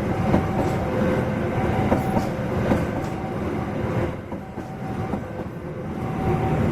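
Train running past, its wheels clacking irregularly over rail joints over a steady rolling rumble.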